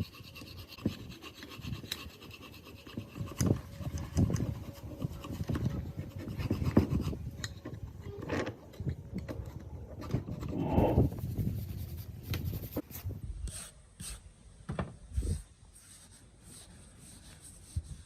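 Irregular hand scraping and rubbing on metal parts, with scattered light knocks and clicks, thinning out in the last few seconds.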